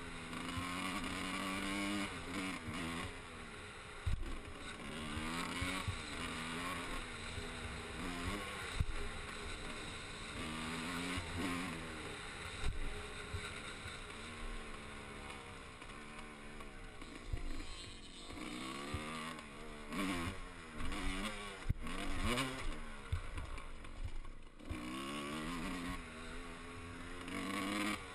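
Motocross bike engine revving up and dropping back again and again as it is ridden, with occasional knocks.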